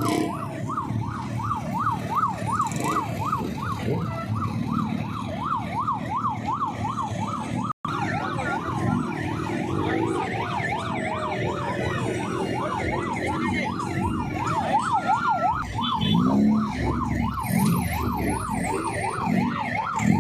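Electronic siren in fast yelp mode, its pitch sweeping rapidly up and down about three times a second, broken by a short cut a third of the way in, over a low background rumble.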